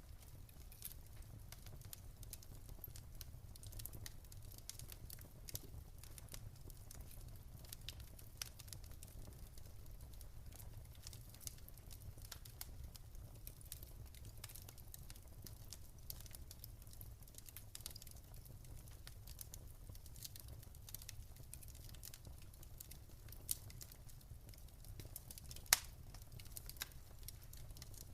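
Wood fire crackling in a fireplace: scattered small pops and crackles over a low steady rumble, with one sharper pop near the end.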